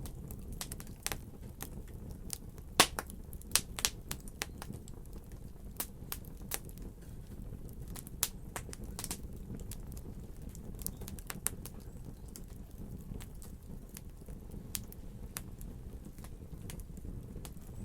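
Wood fire crackling: irregular sharp pops and snaps over a steady low rumble, with a few louder pops in the first few seconds.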